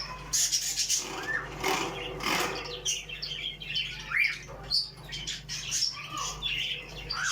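Many small caged birds chirping and calling over one another in quick, overlapping short notes, with a few brief rushes of fluttering wings.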